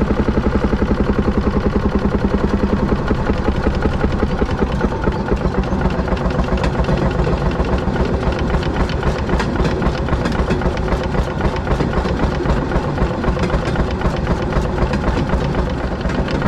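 Fairmont M19 railroad speeder's single-cylinder two-stroke engine running, with rapid, even firing beats.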